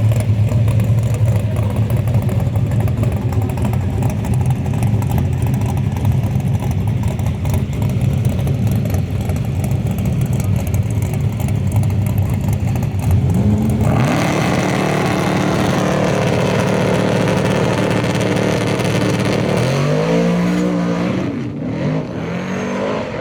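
Drag-race truck engines. A loud, steady engine rumble for most of the first half, then a sudden change to another engine that revs up in rising sweeps, once about two-thirds of the way in and again near the end.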